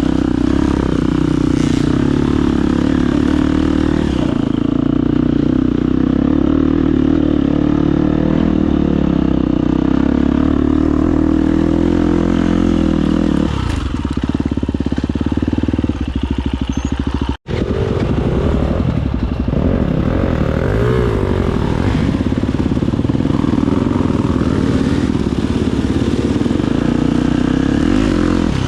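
Husqvarna FE250 single-cylinder four-stroke enduro engine running, its pitch rising and falling with the throttle. The sound cuts out completely for an instant about two-thirds of the way through.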